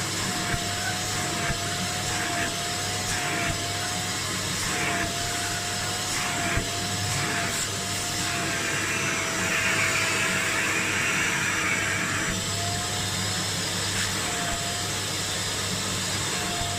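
Kärcher Puzzi 10/1 spray extractor's suction motor running steadily with a slightly wavering whine, and hissing strokes as the nozzle works the upholstery, loudest in a longer hiss from about 8 to 12 seconds in.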